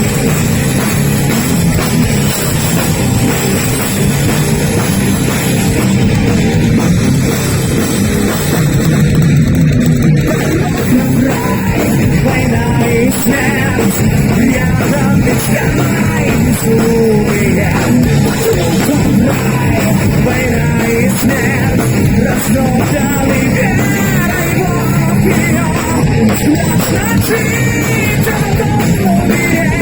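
A live heavy metal band playing loudly and without a break.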